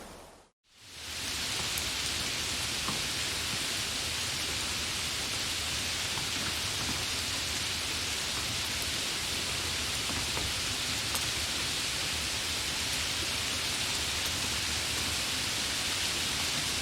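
Steady rain: an even hiss with faint scattered drop ticks. It fades in from a brief silence about half a second in.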